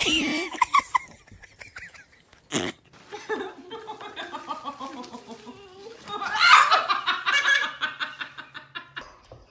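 People laughing, loudest about two thirds of the way through, with a sharp click about two and a half seconds in.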